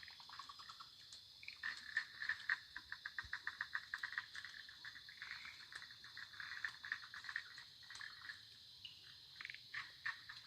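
Forest night chorus: a steady high insect drone, with fast trains of clicking frog calls from about two to eight seconds in.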